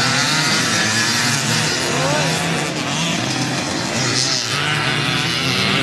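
Several racing motorcycle engines running hard, their pitch rising and falling as the bikes pass one after another.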